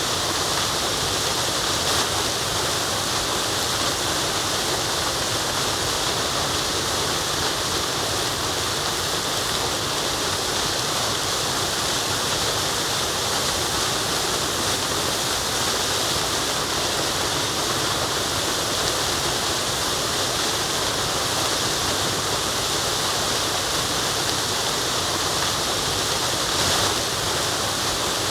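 A waterfall: a steady, unbroken rush of falling water, with most of its weight in the hiss.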